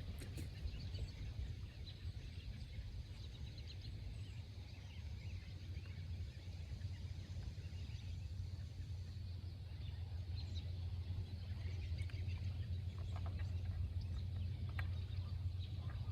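Outdoor ambience: faint, scattered bird chirps over a steady low hum.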